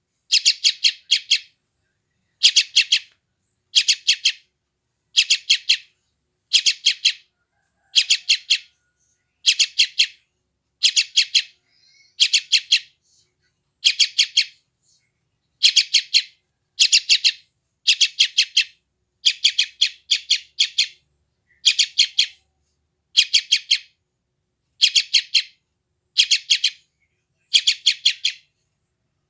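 Young sooty-headed bulbul (trucukan) making hungry begging calls: short bursts of three or four quick high chirps, repeated about once a second.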